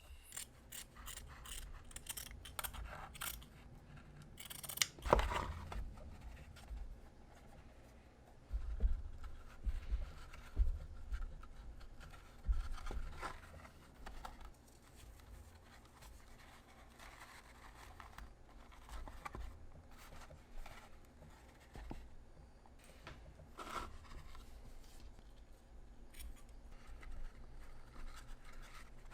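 Scissors snipping in a quick run of short cuts, then scattered knocks, scrapes and rustles of small crafting materials being handled on a work surface, with one sharper knock about five seconds in.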